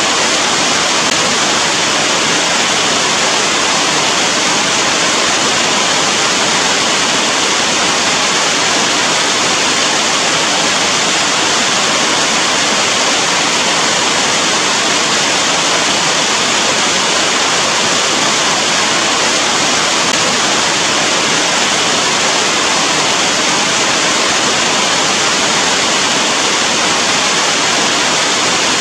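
Steady heavy rain: an even, unbroken hiss of falling water with no separate drops or thunder standing out.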